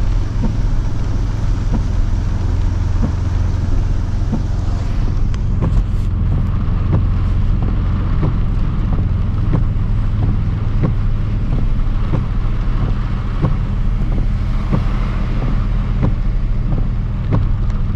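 Steady low rumble of a pickup truck's running engine and road noise heard inside the cab, with scattered faint ticks.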